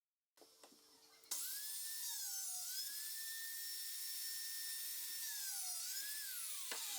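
Mafell dowel-drilling machine's motor running with a high whine. Its pitch sags twice under load as it bores dowel holes in the wood panels, and it starts to wind down near the end.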